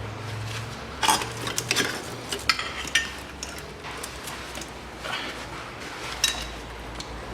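Socket wrench and metal tools clinking on the cylinder head bolts of a Ford Ranger 2.5 turbo engine as the bolts are loosened: irregular sharp metallic clicks, clustered between about one and three seconds in and twice more later.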